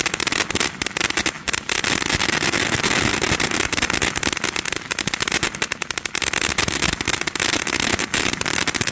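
Santan Fireworks 'Russia Russia Schiff' fountain burning with a dense, continuous crackle of many sharp pops a second.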